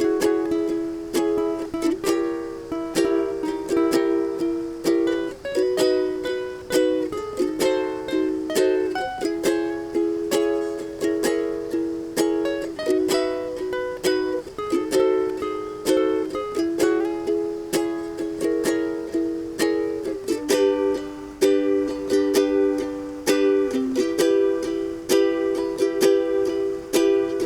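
Ukulele strummed in a steady rhythm, playing a run of chords that change every second or two.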